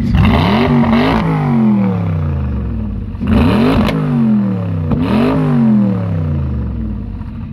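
Tuned Noble M600's twin-turbo V8 revved hard while standing, three quick blips that each rise sharply and fall back to idle, with sharp cracks from the exhaust near the peaks.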